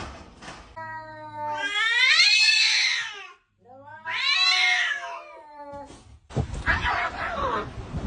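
Cat caterwauling during a fight: two long, drawn-out yowls with wavering pitch, separated by a short pause, then a harsh, noisy stretch from about six seconds in.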